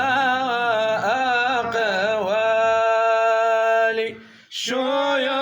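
A man singing a Sufi religious chant (qasida) in Arabic, with wavering ornamented turns and then a long held note. The voice breaks off briefly about four seconds in and resumes on the next word.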